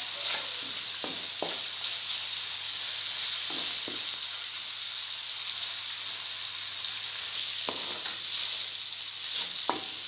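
Sliced onions, green chillies and curry leaves sizzling in hot oil in a metal kadai, with a steady frying hiss. Now and then a wooden spatula scrapes and knocks against the pan as they are stirred.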